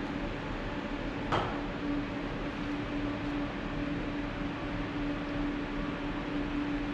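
Steady hum of running machinery: a constant low tone over an even hiss. A single sharp click comes about a second in.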